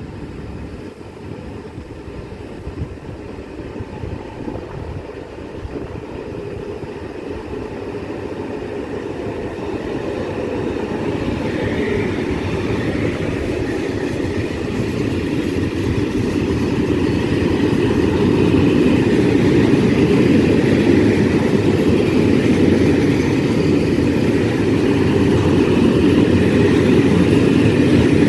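Train approaching along the track, its rumble and wheel-on-rail noise growing steadily louder for about twenty seconds, then running loud and steady as it draws level.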